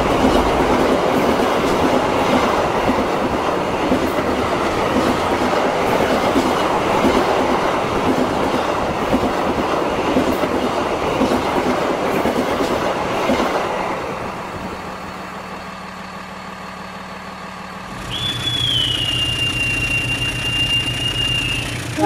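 Passenger train running past, a dense rumble of wheels on the rails with a faint clatter, which dies down about two-thirds of the way through. Near the end a low hum sets in under a single high, steady squeal lasting about three seconds.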